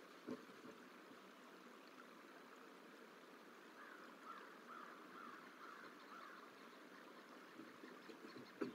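Near silence of steady outdoor hiss, with a faint run of about six short bird calls in the middle. A short knock comes near the start and a louder one near the end.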